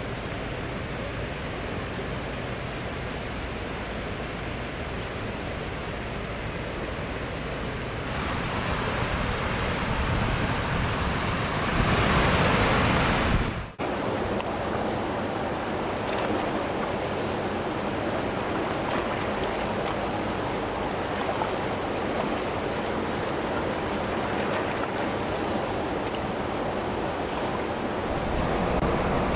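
Steady rushing of a fast mountain river, the Teesta. It grows louder about eight seconds in, breaks off abruptly about fourteen seconds in, and then goes on steadily at the earlier level.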